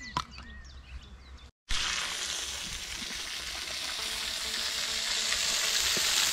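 Food sizzling in a frying pan over an open fire. The sizzling starts abruptly about a second and a half in and grows slowly louder, after a short quiet stretch with a few faint bird chirps.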